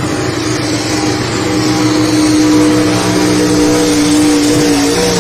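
Big-block Chevrolet V8 in a pulling vehicle running flat out at high, steady revs under load during a pull. The pitch sags slightly near the end.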